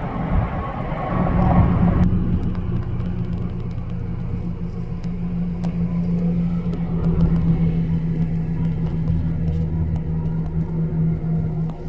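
Highway traffic: motor vehicles running past with a steady low drone and rumble. The higher tyre hiss drops off abruptly about two seconds in.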